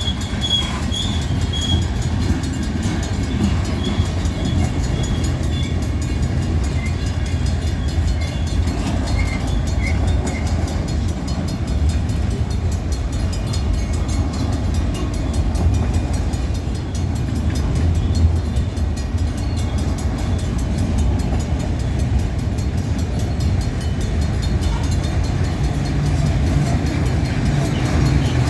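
A train rolling past, a steady heavy rumble of wheels and railcars that carries on throughout.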